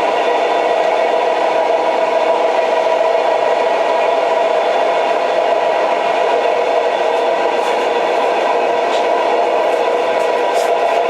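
An old train running steadily: an even rumble and rattle of the train in motion on the rails, with a few faint high ticks near the end.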